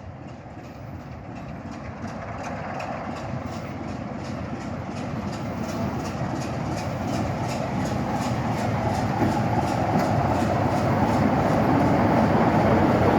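Class 27 diesel locomotive drawing in with its train, growing steadily louder with a fast, even beat.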